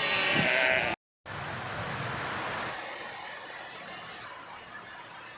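Sheep bleating, cut off abruptly about a second in; after a brief silence, a steady hiss-like background follows with no clear calls.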